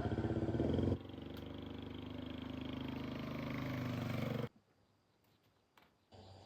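Small motorcycle engine, first pulsing, then running steadily at a slowly rising pitch and level while riding, cutting off abruptly a little over four seconds in. A few faint clicks follow.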